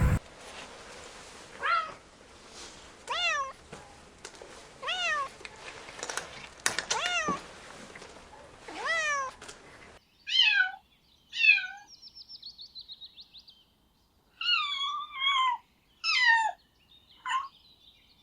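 Kittens mewing: a series of short, high-pitched meows that fall in pitch, one every second or two, with a brief rapid trill near the middle.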